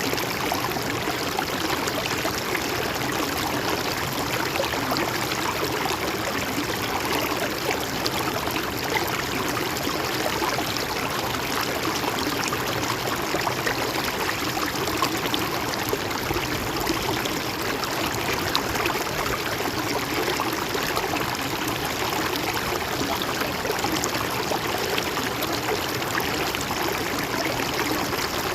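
A river or stream flowing steadily, with an even rush of water and no change in level.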